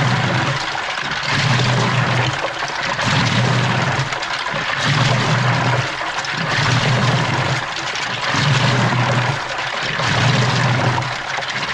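Washing machine in its wash cycle, heard from inside the drum: water sloshing and churning continuously while the drive motor hums in strokes of about a second each, about every second and a bit, as the drum agitates back and forth.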